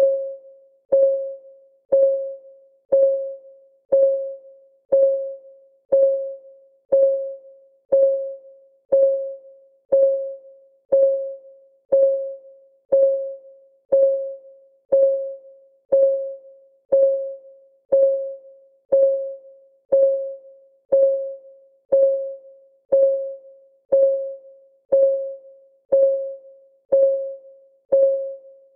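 Countdown timer's ticking sound: one short tick every second, steady and unbroken, each a click carrying a mid-pitched ringing tone that fades quickly.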